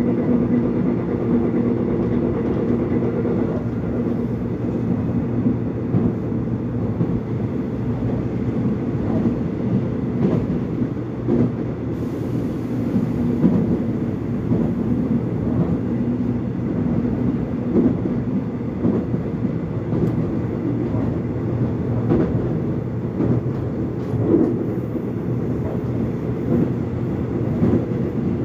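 Seoul subway Line 1 train running between stations, heard inside the carriage: a steady low rumble with a motor hum that fades a few seconds in, and scattered clicks of the wheels over rail joints.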